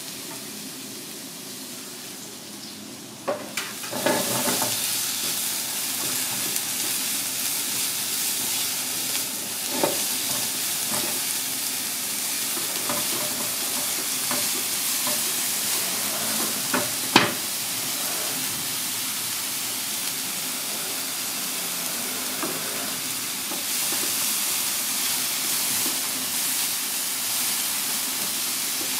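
Diced onion and green pepper sizzling in a hot frying pan over a gas flame, the sizzle starting about three to four seconds in and then holding steady. A wooden spatula scrapes and knocks against the pan as the vegetables are stirred, with one sharper knock a little past the middle.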